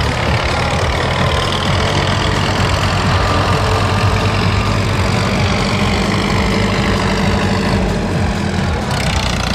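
Tractor engines running with a steady low drone.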